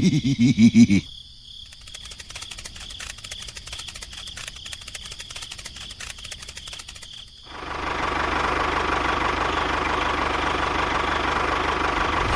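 Small motor of a DIY mini tractor running. It pulses loudly for about a second, then runs quieter with a fast, even ticking and a thin high whine. Near the middle it jumps to a louder, steady running sound.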